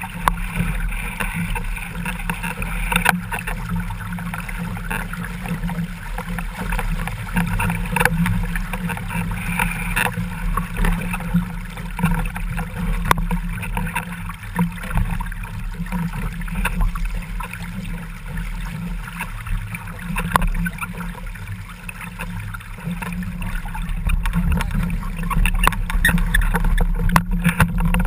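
Water rushing and splashing past a Laser dinghy's hull and rudder, picked up by a camera mounted on the rudder stock just above the water, with a steady low rumble and frequent small knocks and slaps.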